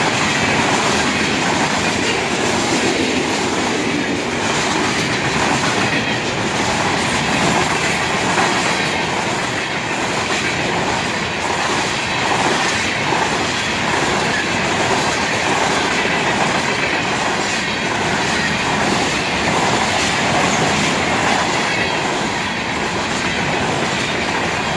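Freight cars of a long CSX freight train rolling past, steel wheels clacking over the rail joints in a steady loud rush.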